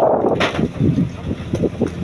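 Wind buffeting the microphone in uneven gusts, with a sharp bump about half a second in, over the running noise of a fishing boat.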